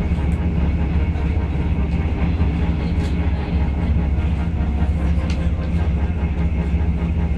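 Passenger train running at speed: a steady low rumble and hum with a few faint clicks.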